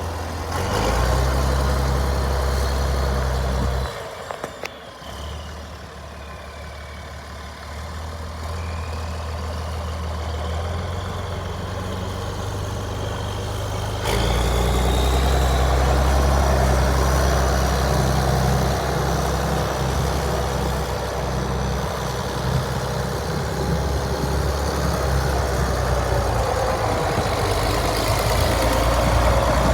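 International Harvester 1566 tractor's six-cylinder turbocharged diesel engine running steadily. It drops noticeably quieter about four seconds in and comes back louder and steady about fourteen seconds in.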